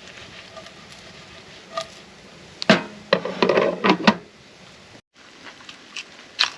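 Handling noises: a few light knocks, then a short run of loud clattering knocks about three to four seconds in, and one more sharp knock near the end.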